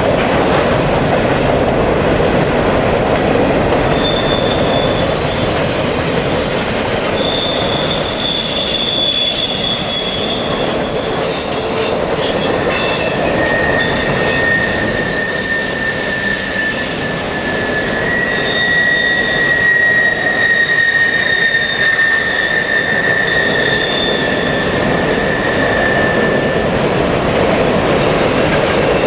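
CN intermodal freight train's cars rolling past with a steady rumble, their wheels squealing on the rails in several long, high-pitched tones that come and go from about four seconds in.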